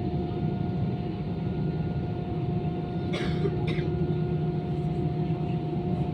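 Steady cabin noise inside an Airbus A320-214 airliner, the drone of its CFM56 jet engines and air flow with a constant hum. About three seconds in come two short hissy sounds.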